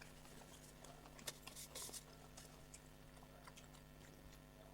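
Faint eating sounds: scattered small clicks and crunches of chewing, a short cluster of them about one and a half to two seconds in, over a faint steady hum.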